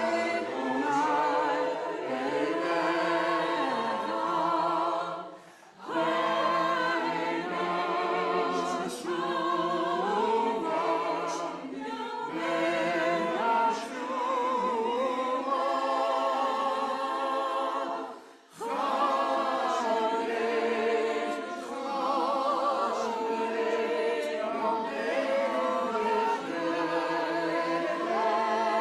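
A choir singing unaccompanied, several voices with vibrato, with two brief breaks between phrases about six and eighteen seconds in.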